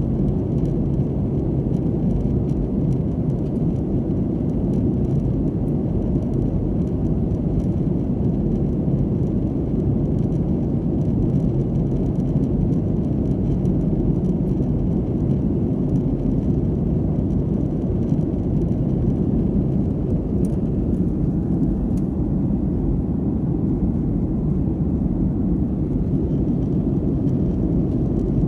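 Passenger airliner cabin noise in flight: a steady low rumble of engines and airflow heard from inside the cabin.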